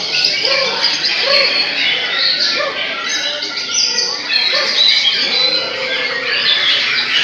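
Several caged white-rumped shamas (murai batu) singing at once in contest, a dense, continuous tangle of overlapping whistled phrases and quick pitch glides.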